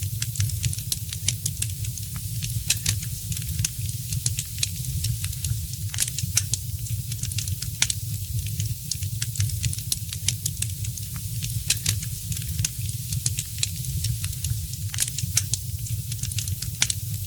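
Wood fire crackling, with frequent sharp, irregular pops and snaps over a steady low rumble of the flames.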